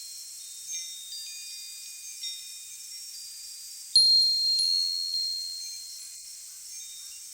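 Wind chimes ringing: high, clear notes struck at irregular moments, each ringing on and fading slowly, with a few light strikes early on and the loudest strike about four seconds in.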